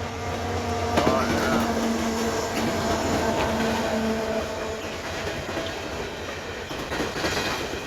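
Empty CP Rail coal train rolling past at close range: a steady rumble with clicking of the wheels over the rail and a louder stretch from about a second in.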